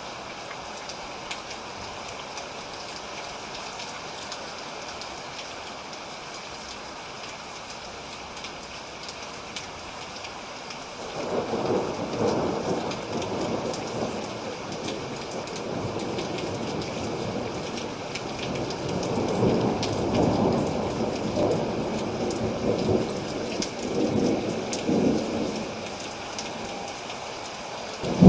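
Steady rain falling, with thunder rolling in about eleven seconds in and rumbling on in waves for the rest of the stretch.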